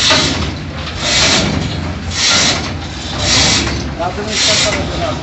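A hand tool rasping against a workpiece in slow, regular strokes, about one a second, over a low steady background hum.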